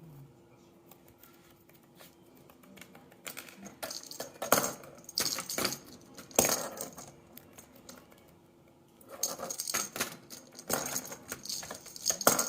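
Small hard pieces clicking and rattling in irregular spells as a lovebird works a puzzle toy with its beak: one spell about three to seven seconds in, another from about nine seconds on.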